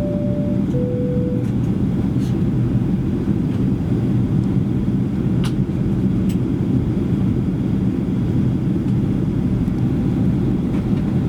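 Steady low rumble of cabin noise inside a Boeing 737-800 airliner. At the very start, a two-tone high-low cabin chime sounds.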